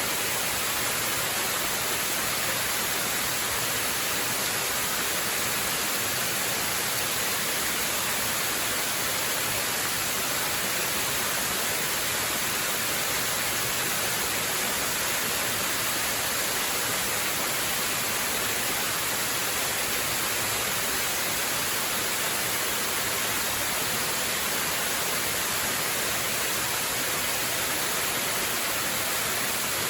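Waterfall: a steady rushing of falling water, even and unbroken, with a bright hissy edge.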